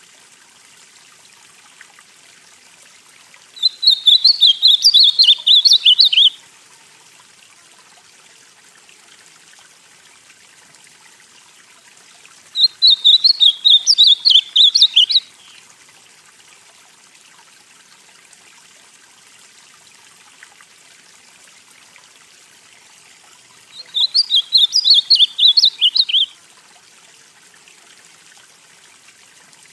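Ultramarine grosbeak (azulão, northeastern form) singing: three short, quick warbled song phrases, each about two and a half seconds long and roughly ten seconds apart, over a faint steady hiss.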